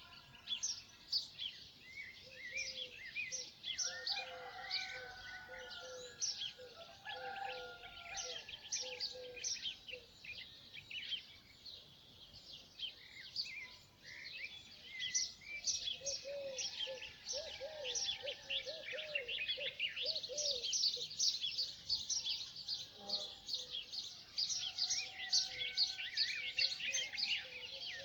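Many birds chirping and singing together, with rapid high chirps throughout that grow denser about two-thirds of the way in. A lower call repeats underneath in the first half and again midway.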